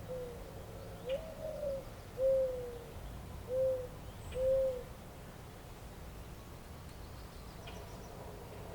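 A dove cooing: about five low hooting notes in the first five seconds, the second longest and rising then falling, the last two shorter, over a steady low background rumble.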